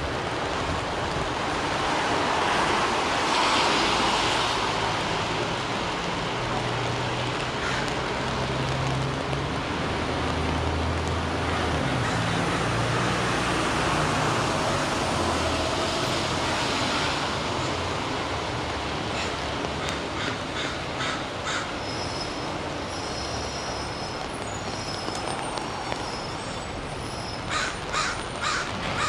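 Rain falling on an umbrella over steady city street traffic, with a heavy vehicle's low engine hum passing through the middle. Two runs of short, sharp bird calls come in late, the second of four quick calls near the end.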